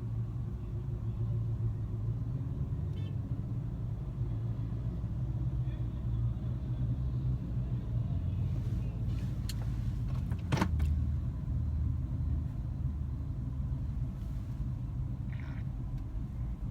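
A motor vehicle engine idling with a steady low rumble, with a couple of sharp clicks about ten seconds in.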